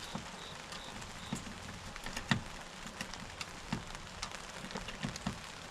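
Rain falling steadily, with an even patter and scattered sharper drops or taps.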